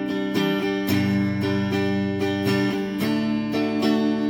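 Donner DST-100 Strat-style electric guitar played clean on its neck pickup through a Boss Nextone amp: chords strummed and left ringing, changing about every half second to second.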